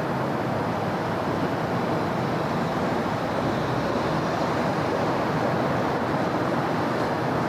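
Steady city traffic noise: a continuous wash of passing vehicles and tyres on the road, with no single standout event.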